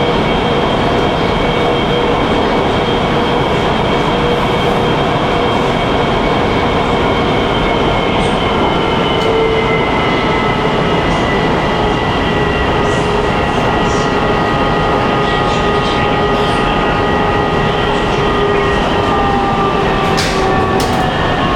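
Metro train running through a tunnel, heard from inside the car: a loud, steady rush of wheel and tunnel noise with a motor whine of several tones slowly falling in pitch as the train slows for the next station. A few light clicks come near the end.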